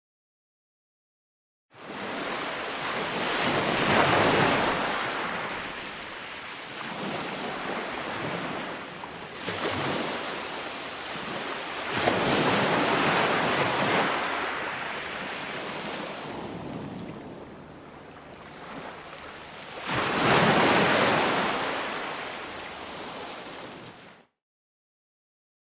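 Ocean waves breaking on a shore, with three big swells that build and fade about 4, 13 and 21 seconds in, and wind on the microphone. The sound cuts out completely for nearly two seconds at the start and again near the end.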